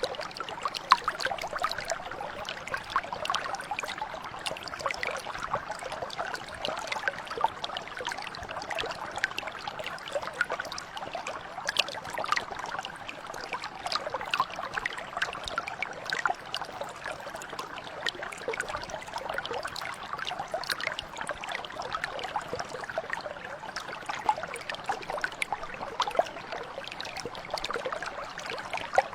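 Shallow mountain brook flowing steadily, water trickling and splashing over stones in a dense patter of small splashes.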